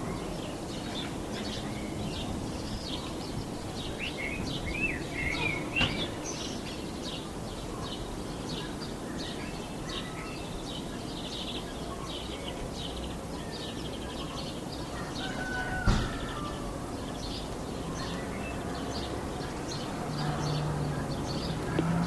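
Small birds chirping over and over with short high calls over a steady low rumble of road traffic. There are a few gliding whistles about five seconds in, and a sharp click about sixteen seconds in.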